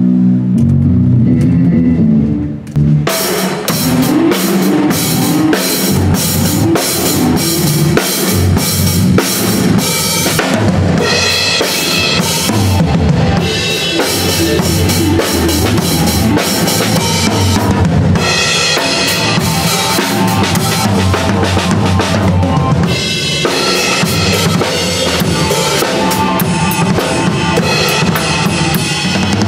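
Rock band warming up: a low bass-and-guitar line plays alone for the first few seconds, then a full drum kit, with kick and snare, comes in and plays along with the band.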